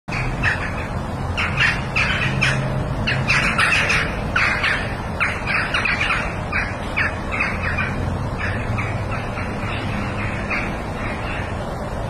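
Birds squawking in a rapid run of short, harsh calls, two to three a second, loudest in the first half and weaker toward the end, over a steady low rumble.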